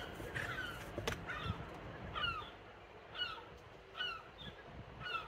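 A bird calling in short falling chirps, repeating about once a second.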